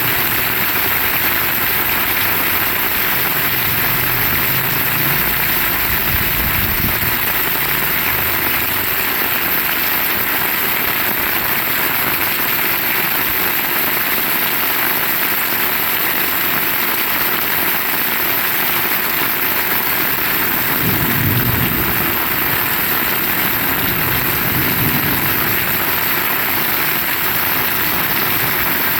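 Heavy rain falling steadily, with a low rumble rising and fading twice, a few seconds in and again about two-thirds of the way through.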